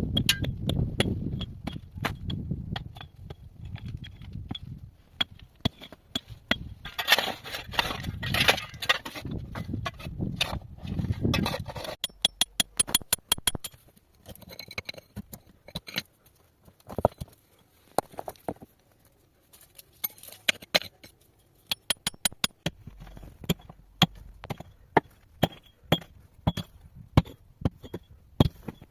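Irregular sharp knocks and clinks of hard objects striking one another, over a low rumble for about the first twelve seconds, then sparser, crisper clicks.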